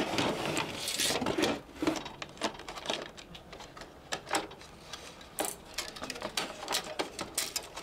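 Hands handling the parts of a disassembled device: a rustle for the first couple of seconds, then a run of short, irregular clicks and taps.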